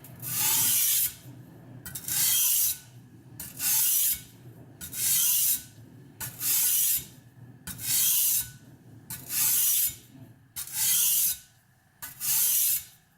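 Knife blade being stroked across the fine side of an oiled two-sided sharpening stone: nine even, light strokes about one every second and a half, each a short scraping hiss. The strokes refine the edge bevel raised on the coarse side.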